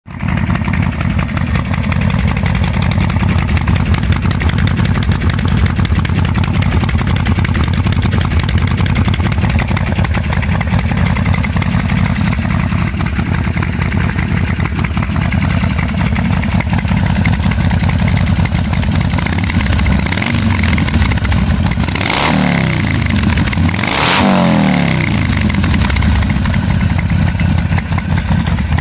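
Harley-Davidson 883 Iron's air-cooled V-twin idling through an aftermarket Bzl exhaust with a loud, lumpy low rumble. The throttle is blipped twice near the end, the revs rising and falling quickly each time.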